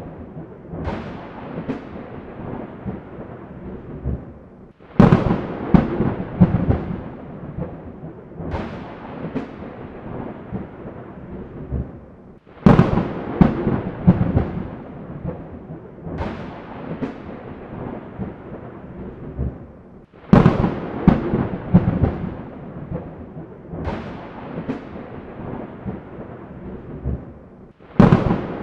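Thunderstorm: a sharp thunderclap followed by rolling rumbles and smaller cracks, repeating four times at nearly even spacing of about every seven or eight seconds, over a steady hiss of rain.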